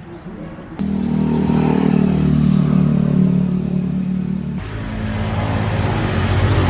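Engine running, starting abruptly about a second in; near the middle the sound switches suddenly to a lower, pulsing run.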